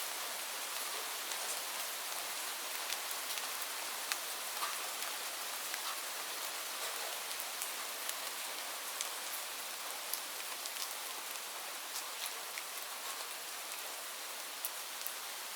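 Steady rain falling, an even hiss with many small scattered drop ticks landing on a surface.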